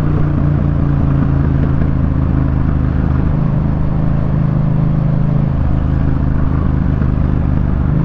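Yamaha MT-07's parallel-twin engine running steadily at low road speed through a Jeskap K4 full exhaust system, with only small changes in its note.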